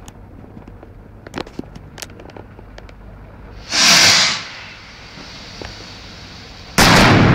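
A few faint crackles, then a loud hissing whoosh about four seconds in, then near the end a sudden loud blast as an improvised device of two hairspray cans, a gas canister and a signal flare explodes.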